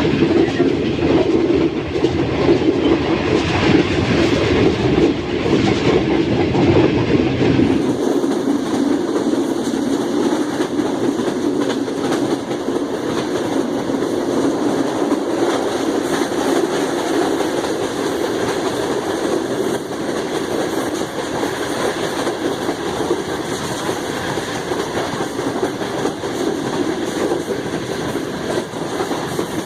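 Track rumble of a fast-running passenger train heard from on board: a steady, dense rumble of coach wheels on the rails. About eight seconds in the sound changes abruptly, the deepest part of the rumble dropping away and more hiss coming in.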